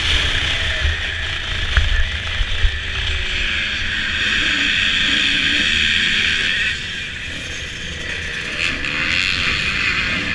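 Motocross dirt bike engine running under a heavy rush of wind over the camera microphone, with a few knocks about two seconds in. The engine pitch slides up and down, and the wind eases a little past the middle.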